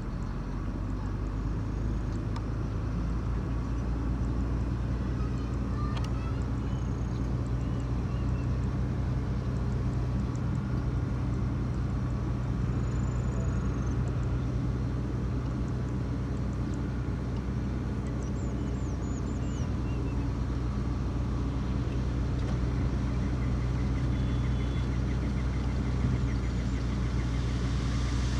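Heavy diesel engine of earthmoving equipment running steadily at a constant low speed.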